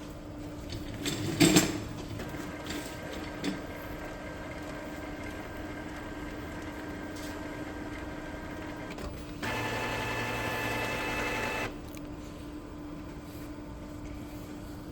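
Epson L3256 inkjet printer's mechanism running, likely in its print-head cleaning cycle: a clack or two, then a steady motor whine, with a louder whir for about two seconds about two-thirds of the way in.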